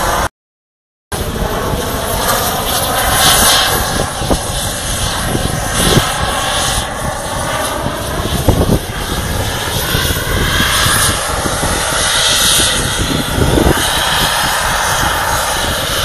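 RC model jet's engine running loud and steady at high power while the model hovers, its sound slowly sweeping as the model shifts about. The sound cuts out completely for under a second near the start, then comes back.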